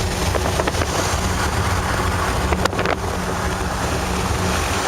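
Wind rushing and buffeting through an open rear car window while driving, over the car's steady low road and engine rumble.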